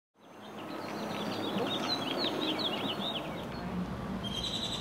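A songbird chirping in a quick run of short, sweeping notes over a steady outdoor background hiss, fading in from silence at the start, with another brief high call near the end.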